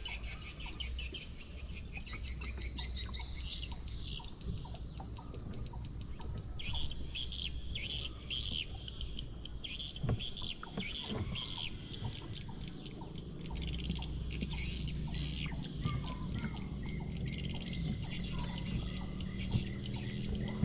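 Birds chirping and calling over and over, with a low steady rumble underneath.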